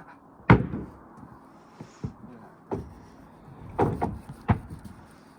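A handful of irregular heavy knocks and thumps on wooden framing, the loudest about half a second in and a close pair near the end.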